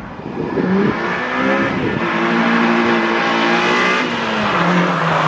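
Honda EP3 Civic with a swapped K24 four-cylinder engine accelerating hard up the street, its engine note climbing in pitch, holding, then falling near the end. The 3-inch exhaust with resonator keeps it quiet, so mostly intake sound is heard.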